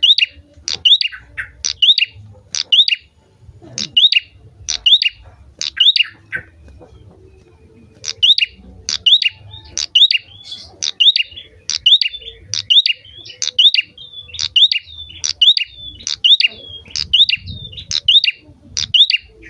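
Prinia (prenjak) singing in full voice: a fast series of sharp, high chirps about two a second, breaking off for a moment about six seconds in, then resuming.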